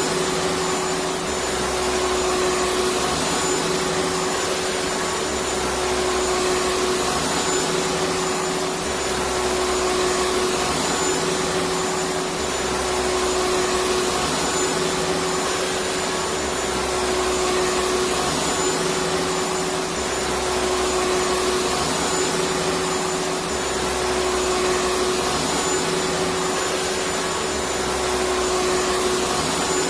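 Electric vacuum cleaner running continuously: a steady rushing whine with a constant tone, and a low hum that swells and fades about every two seconds.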